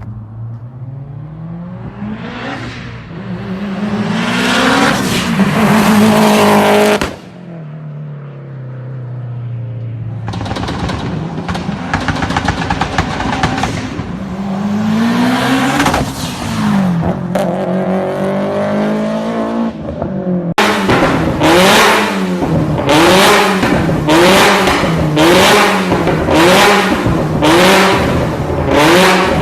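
Tuned car engines revving hard through loud exhausts, the pitch climbing and dropping several times, with crackling pops on the overrun. In the last part the engine is blipped in quick repeated revs, about one a second.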